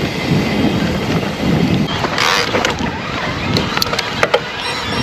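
Wind buffeting the action-camera microphone over the rumble of a mountain bike rolling on a rough track, with a gust of hiss about two seconds in and a few sharp knocks from the bike rattling over bumps near the end.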